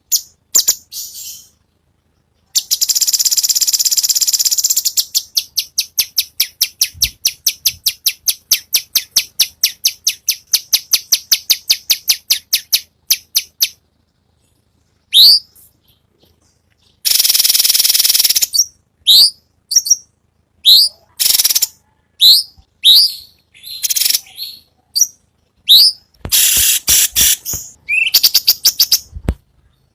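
Cucak cungkok songbird singing: a long buzzy trill, then a fast run of repeated notes, and after a short pause, sharp whistled notes mixed with harsh buzzy rattles.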